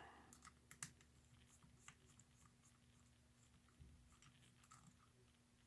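Near silence with a few faint, scattered clicks and taps of small metal parts being handled, the clearest about a second in, over a faint steady electrical hum.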